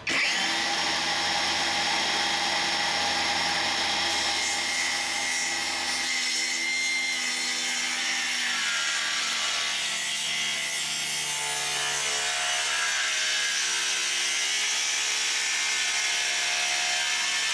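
Power saw cutting wood in one continuous run. The motor's pitch shifts a little about six seconds in and again around nine to ten seconds in as the load on the blade changes.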